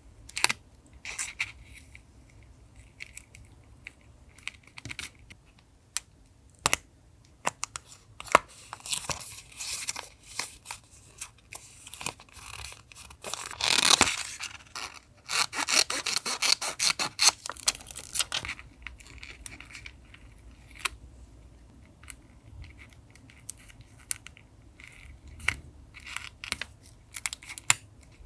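Paper being handled for collage journaling: scattered rustles and small clicks and taps, with a louder burst of paper noise about fourteen seconds in and a dense stretch of rustling and tearing just after it.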